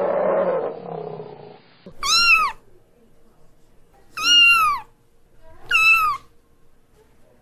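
A cat meowing three times, about two seconds apart. Each meow is about half a second long and rises then falls in pitch. Before them, a rough, noisy sound fades out over the first second and a half.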